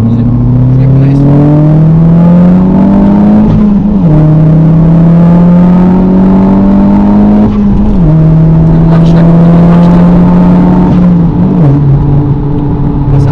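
Stage 3 tuned Volkswagen Golf 5 GTI's turbocharged four-cylinder pulling under hard acceleration. Its note rises steadily in pitch and drops at three upshifts of the manual gearbox, roughly every four seconds.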